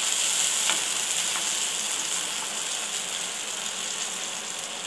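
Soy sauce and vinegar sizzling in hot oil with fried ginger, garlic and curry leaves in a non-stick kadhai: a steady hiss that eases slightly, with a couple of faint taps of a wooden spatula near the start.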